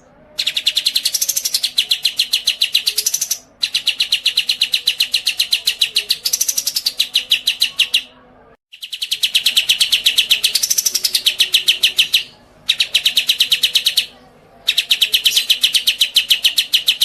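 A songbird singing long, fast trills of rapid high notes, about a dozen a second, in runs of a few seconds broken by short pauses.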